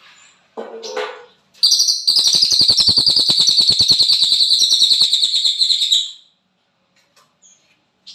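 A cililin songbird singing: a brief call, then one long, fast rattling trill of about four and a half seconds, the electric-crackle 'konslet' song of a bird in full voice (gacor).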